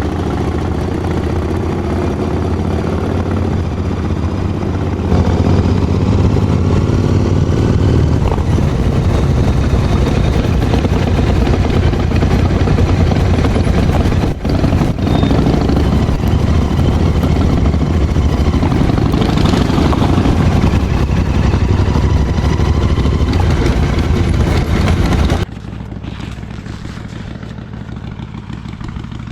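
Harley-Davidson V-twin motorcycle engine running on the move, getting louder about five seconds in, with a brief dip about halfway through, then dropping sharply to a lower, quieter run a few seconds before the end as the throttle eases off.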